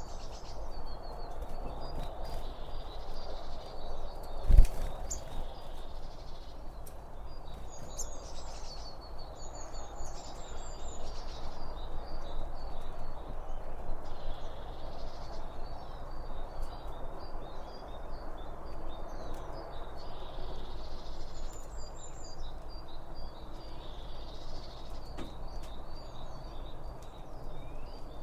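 Small birds chirping and twittering in short repeated phrases over a steady rushing background noise, with one heavy low thump about four and a half seconds in.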